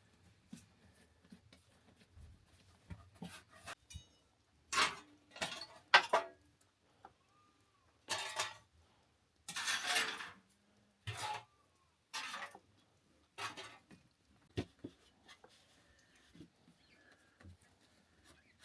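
A series of short, irregular scraping and crunching noises, a dozen or so, the loudest clustered in the middle.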